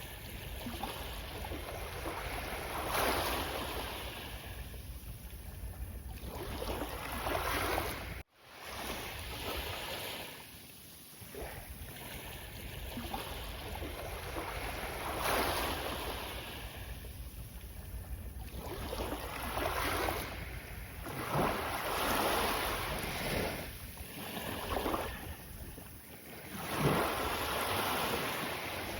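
Sea of Japan surf breaking on a sandy beach: waves rush in and fall back every few seconds in swelling surges of noise. The sound cuts out for a moment about eight seconds in.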